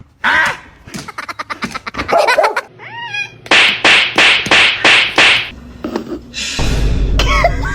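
A cat meowing in short pitched calls, with a quick run of clicks about a second in and then five short noisy bursts in a row. A low rumble comes in near the end.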